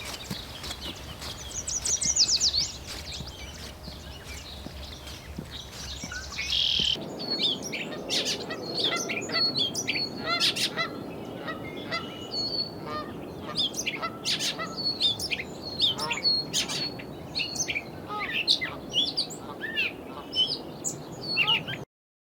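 Birds calling in the open: a high songbird trill about two seconds in, then, after an abrupt change in the background about seven seconds in, many short chirps and calls mixed with the honking of Canada geese. The sound cuts off suddenly near the end.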